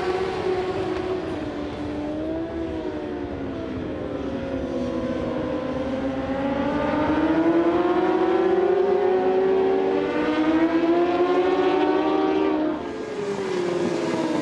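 Racing motorcycle engines at full song on track, their pitch climbing and falling over several seconds as the bikes accelerate and change gear, with a sudden drop in pitch and loudness near the end.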